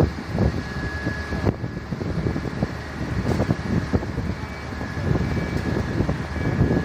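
Vehicle engine running, with wind buffeting the microphone in uneven gusts.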